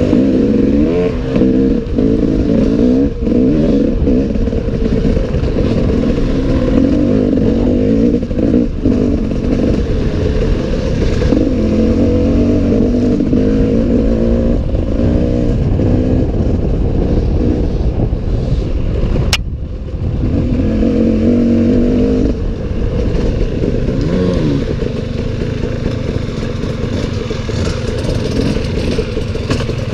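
Off-road enduro motorcycle engine running hard, its pitch rising and falling as the throttle is worked, with clattering over rough ground. About two-thirds of the way through there is one sharp click and the sound briefly drops.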